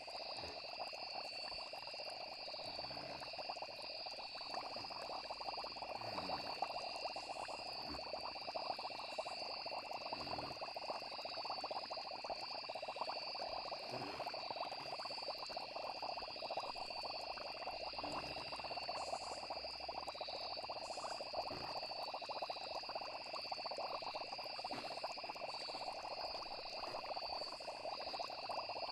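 Night-time nature ambience: a steady chorus of crickets or other insects trilling, over a dense chorus of frogs.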